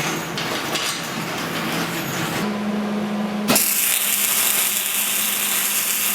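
Power-tool work on steel: a loud, steady noisy run with a hum under it, changing abruptly twice as the sound jumps between clips.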